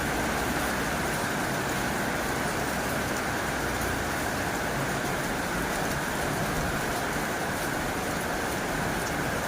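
Heavy rain drumming steadily on a tin roof, a dense, even hiss of drops.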